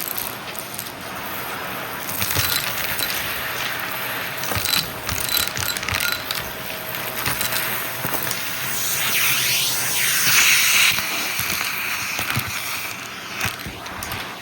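Shark vacuum cleaner running, a steady suction hiss and motor hum with many quick clicks and rattles as small debris is sucked up.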